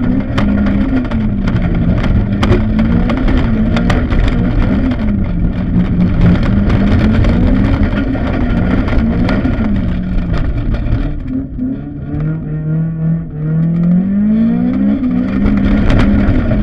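Autocross car's engine heard from inside the cabin, driven hard, its note rising and dropping again and again through the gears. Sharp ticks of loose gravel strike the car's body and underside. About eleven seconds in the engine eases off and quietens, then revs up again near the end.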